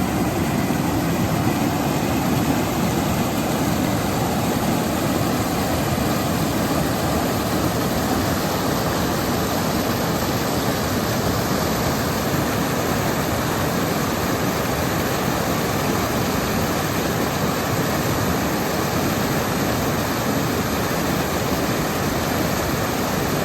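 Waterfall's falling water making a loud, steady, unbroken rush, cut off abruptly just after the end.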